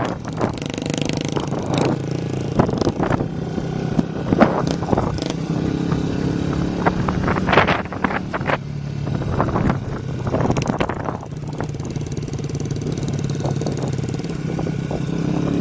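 Motorcycle engine with an open, straight-through exhaust running at a steady pace, with many sharp exhaust pops and cracks breaking through the drone.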